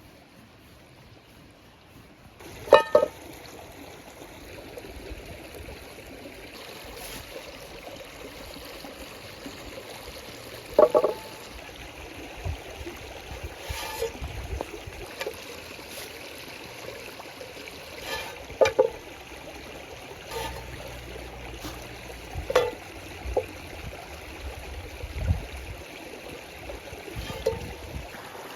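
Steady rush of running water, with a handful of short, sharp clinks scattered through it, the loudest a double clink near the start.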